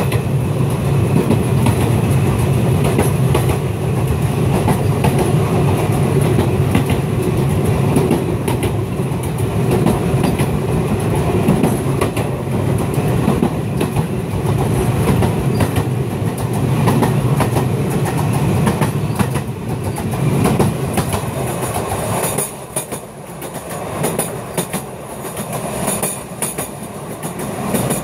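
Sóller railway narrow-gauge train running along the track: a steady rumble and rattle of wheels on rails with scattered clicks. In the last few seconds the rumble eases and short high squeaks from the wheels come through.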